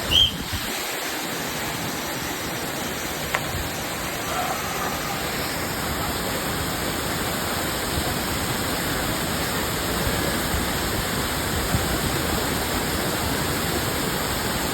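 Cambugahay Falls waterfall pouring steadily, an even rush of falling water. A brief high-pitched chirp sounds just after the start, and faint voices are heard about four seconds in.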